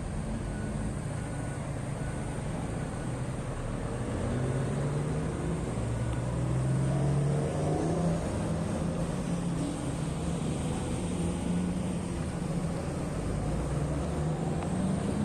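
Heavy diesel engine of mining equipment running under load, its pitch shifting up and down and rising a little around the middle as the machine works.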